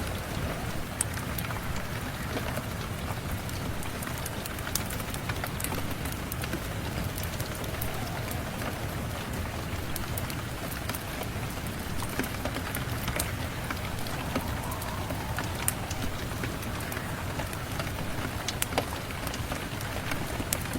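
Steady rain mixed with a crackling fireplace: an even hiss throughout, with scattered sharp pops and ticks.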